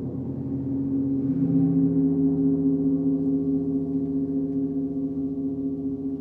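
Gong ringing in a long, sustained wash of overlapping low tones. It swells louder about a second in as a new low tone joins, then slowly fades.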